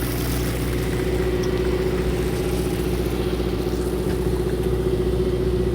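A fishing boat's engine running steadily at low revs, an even hum with no change in pitch.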